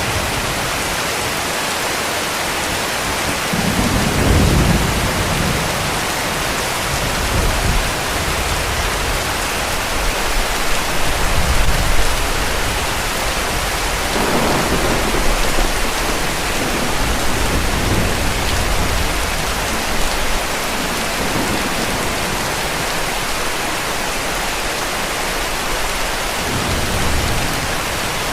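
Heavy rain falling in a steady hiss, with several low rolls of distant thunder swelling and fading through it.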